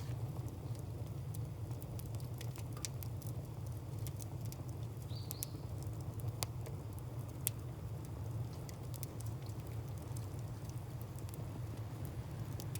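Wood fire crackling: scattered sharp pops and snaps of burning firewood over a steady low rumble.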